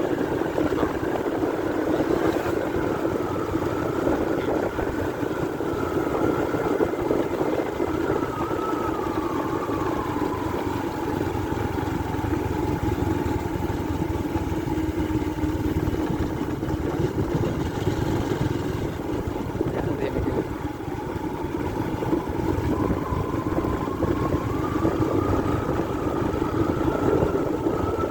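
Motorcycle engine running as the bike rides along, its pitch falling about a third of the way in and climbing again near the end as the rider eases off and speeds up, with rumbling wind and road noise underneath.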